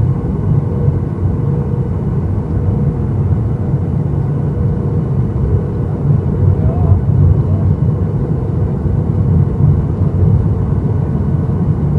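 Steady cabin noise inside a Boeing 737-800 in flight: a deep, even rumble of the CFM56 engines and the airflow over the fuselage, with a faint steady hum above it.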